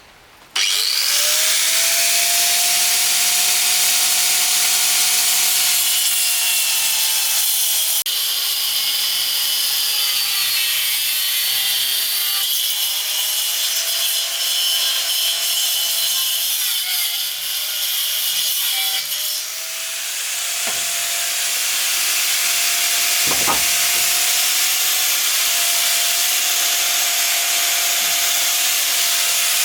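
Power saw spinning up about half a second in and cutting into wood: a steady high whine over a loud rasping noise, its pitch sagging and wavering through the middle as the blade bites, then steadying again.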